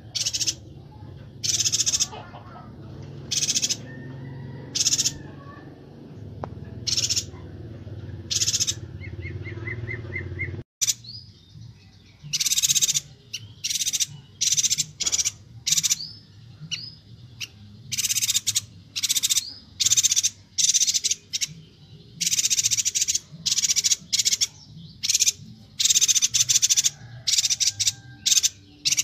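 Chestnut-crested yuhina (Bornean yuhina) calling repeatedly in short, high-pitched chattering bursts, a few per second at times. The bursts come thicker from about 11 s on, after an abrupt cut in the recording.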